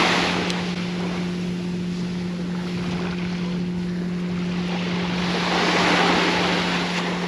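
Ocean surf washing onto the beach, with wind on the microphone: a wave rushes in at the start, and another builds and breaks about five seconds in. A steady low hum runs underneath.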